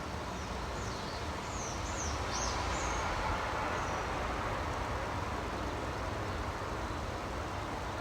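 Small birds chirping in short, high, quick notes during the first few seconds, over a steady rushing background noise that swells slightly in the middle.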